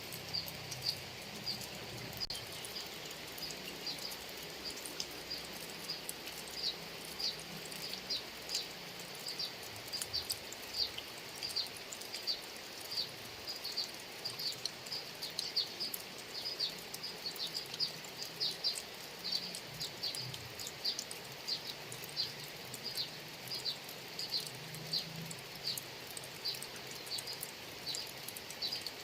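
Steady rain hiss, overlaid with a sharp, high-pitched chirp from some small creature, repeating irregularly about twice a second throughout.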